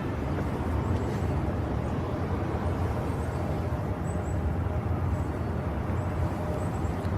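Steady low rumble of wind blowing across the microphone in a snowstorm.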